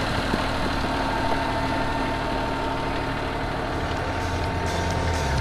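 Vehicle engine running steadily, a constant hum with several held tones.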